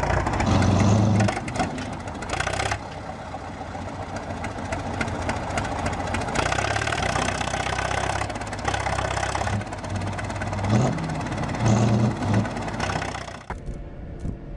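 Heavy tractor's diesel engine running hard under load as it tows a stuck tractor out of mud, surging louder twice, near the start and again near the end. The sound changes abruptly just before the end.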